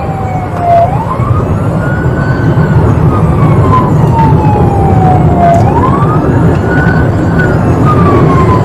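Emergency-vehicle siren wailing in a slow rise and fall, a little under two full cycles, over steady engine and road noise from a vehicle moving at speed.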